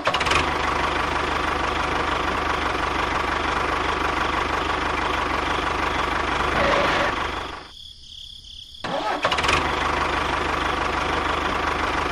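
A small engine running steadily. Near the end it drops away for about a second, then comes back.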